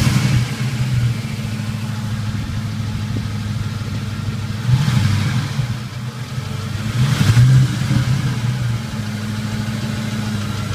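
Ford 5.4-litre three-valve V8 idling roughly with a knock in it, swelling louder twice, about five and seven seconds in. The owner suspects the variable cam timing solenoids or cam phasers, as the engine has thrown a P0340 camshaft sensor code despite new cam sensors.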